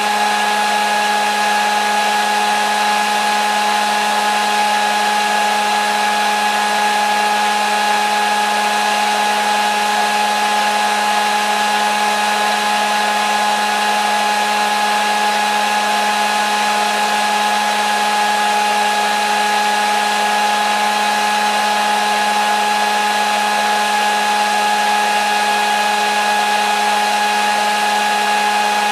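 Hair dryer running steadily: an even rush of air over a constant motor hum with a higher whine, no change in speed or pitch.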